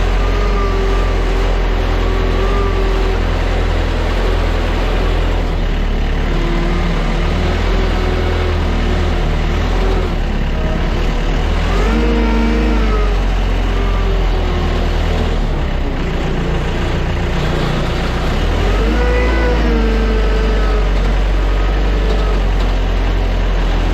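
Airport ground vehicles' engines running over a loud, steady low hum, revving up and down twice: about halfway through and again a few seconds later.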